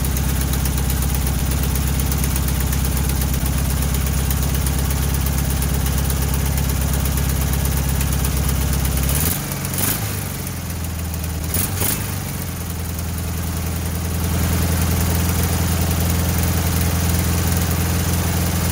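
A 1968 VW Bus's air-cooled flat-four engine idling steadily after its first start in years, on a fast idle that runs a little high. About nine seconds in the engine note dips and wavers for a few seconds, with two sharp clicks, then it settles back into a steady idle.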